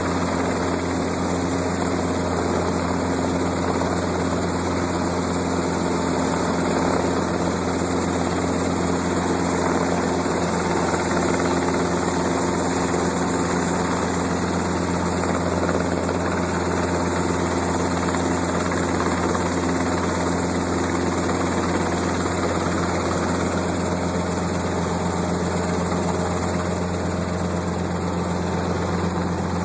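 A helicopter's engine and rotors running steadily in flight. It is one constant, unchanging drone with a strong low hum.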